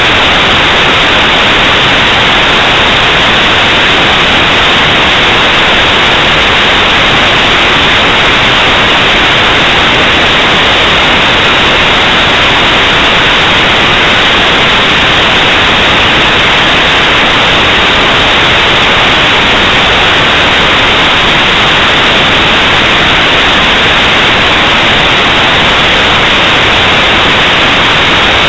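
Loud, steady static hiss, an even white noise that never changes or breaks.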